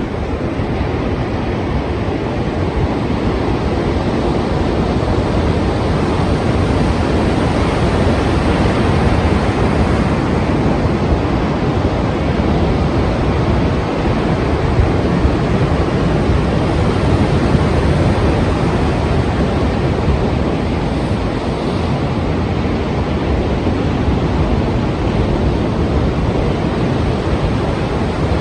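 Strong ocean surf: a dense, steady wash of breaking waves, with wind.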